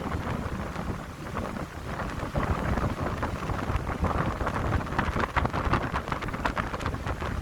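Wind blowing through a pine grove in uneven gusts, with a low rumble of wind buffeting the microphone.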